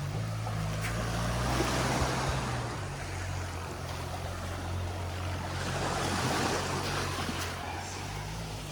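Sea waves washing onto the beach, the surf swelling twice, over a steady low hum.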